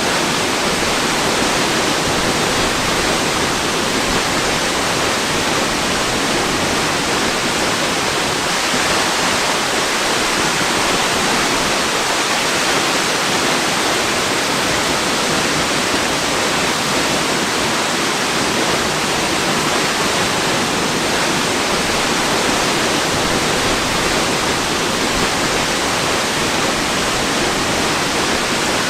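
Waterfall: a steady, unbroken rush of falling water, even throughout and strongest in the upper-middle range.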